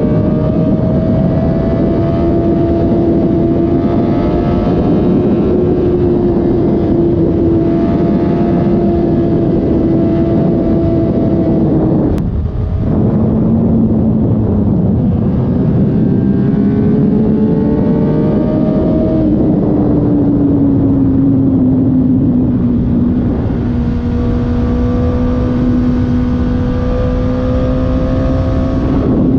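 Suzuki GSX-R1000 K7's inline-four running through its stock factory exhaust while ridden at a fairly steady throttle, heard over a steady rush of wind. About twelve seconds in the sound dips briefly and the engine note comes back lower, as with an upshift. The pitch changes again around nineteen seconds.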